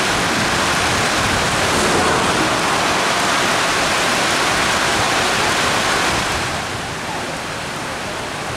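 Steady roar of a football crowd in the stands, with many voices blending into one noise. It eases off about six and a half seconds in.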